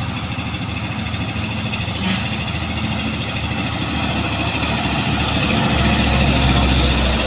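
Heavy truck engine running and growing steadily louder, with a deeper rumble setting in about six seconds in as the truck comes closer or pulls harder.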